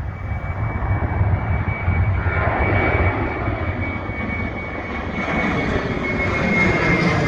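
Airliner taking off at close range: a dense engine rumble with a steady high whine, growing louder in the second half.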